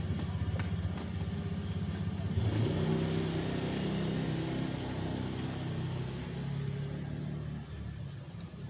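Mitsubishi Pajero Sport's diesel engine running, test-run after an oil and filter change. It runs with a pulsing rumble, is revved up about two and a half seconds in, and then slowly settles back.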